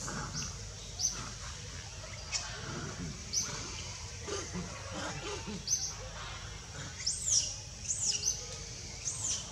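Birds calling in forest: short, high, upward chirps about once a second, and a few arched high notes in quick succession near the end, with softer, lower calls scattered through the middle.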